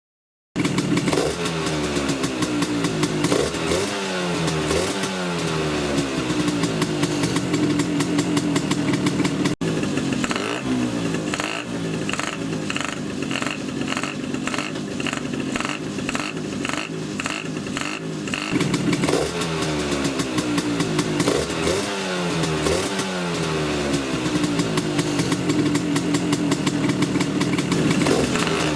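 Tuned Vespa two-stroke engine with a reed-valve intake running, its throttle blipped several times so the revs rise and fall sharply. There is a sudden break about ten seconds in. This is followed by a stretch of steadier running with an even pulsing beat, and then more throttle blips near the end.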